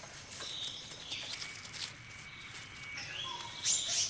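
Outdoor nature ambience: short, repeated bird chirps over a steady high-pitched insect drone.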